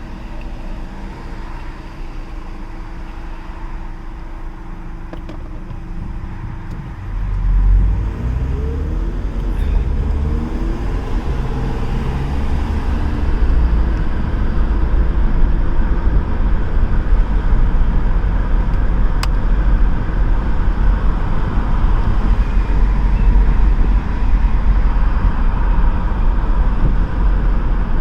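Inside a car's cabin with all four windows open: the engine hums steadily, then from about seven seconds in the car accelerates, the engine pitch climbs, and loud low wind buffeting through the open windows takes over and stays.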